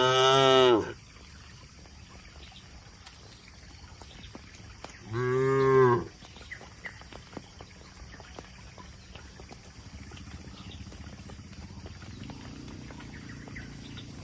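Cow mooing: two short moos, each about a second long, the first at the start and the second about five seconds later.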